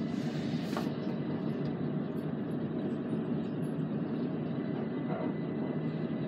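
Passenger train running noise heard from inside the carriage as it pulls into a station: a steady low rumble, with a short hiss in the first second.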